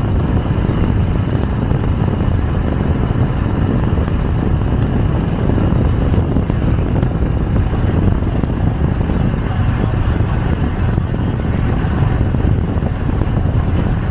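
Riding on a moving motorcycle taxi: steady wind rush on the microphone mixed with engine and road noise, with no sudden events.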